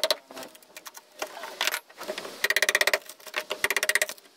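A power tool chattering in rapid strikes against the transom wood, run in several short bursts of about half a second with pauses between them.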